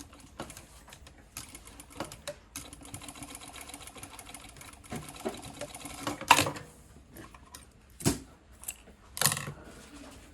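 Sewing machine running a fast stretch of stitching, then stopping. A few separate sharp clacks follow, the first one the loudest.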